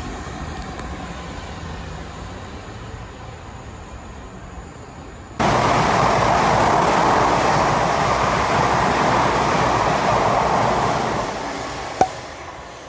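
A passing train's rumble fading away, then, after an abrupt cut, a louder steady rushing of another train passing at speed, which fades out near the end. A single short click just before the end.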